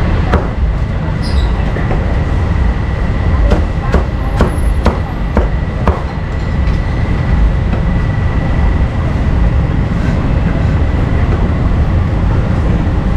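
Loud, steady low rumble of street noise, with a run of sharp knocks between about three and six seconds in.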